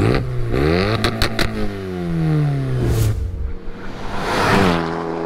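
Renault Megane RS's tuned turbocharged four-cylinder revving hard: the revs climb, three sharp exhaust pops come about a second in, then the revs fall away. After a sudden cut the engine revs up again and holds steady near the end.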